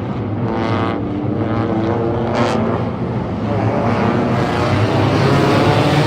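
A pack of front-wheel-drive race cars running laps in a race, several engines droning together at once.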